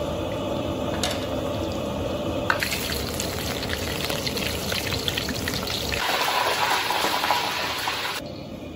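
Breadcrumb-coated chicken drumsticks deep-frying in a wok of oil: a steady sizzling hiss with scattered crackles. The sizzle shifts in tone a few times, is brightest and crispest about six seconds in, then drops quieter near the end.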